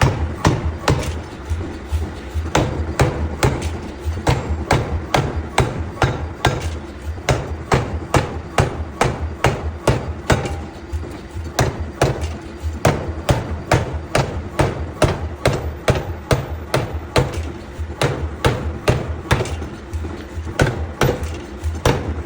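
Hammer blows on metal in forging, a continuous run of sharp strikes about two to three a second, with background music.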